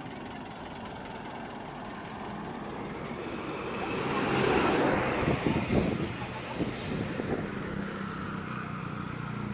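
Heavy diesel machinery running, with a steady engine rumble. About four seconds in the sound swells with noise and a high rising whistle, then rattles and knocks for a couple of seconds.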